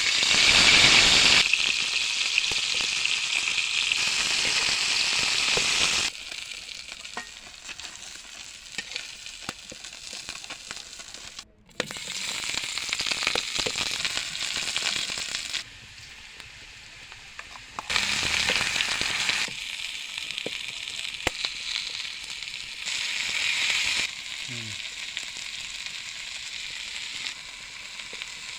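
Masala-coated fish pieces frying in hot oil, a steady sizzle with small pops throughout. The sizzle jumps abruptly louder and quieter several times.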